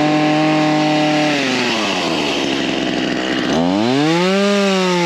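Ryobi 37cc two-stroke gas chainsaw revved twice. The engine climbs to a high steady pitch and holds it for about a second, drops back to idle, then is throttled up again about three and a half seconds in, with a brief dip near the end.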